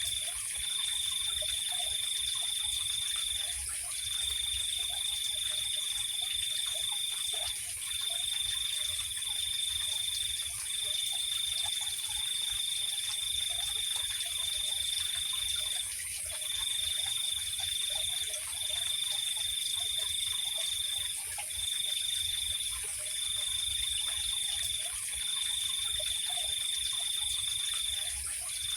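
Night chorus of insects: a steady high trill that breaks off for short gaps every few seconds, over a continuous higher-pitched whine, with faint scattered low chirps underneath.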